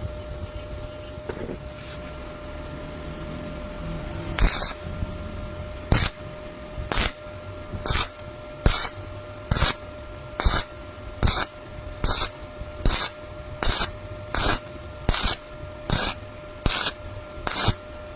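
Welding arc struck in short, evenly spaced bursts, about fifteen of them roughly once a second from about four seconds in, as in stitch or tack welding. A steady low machine hum runs underneath.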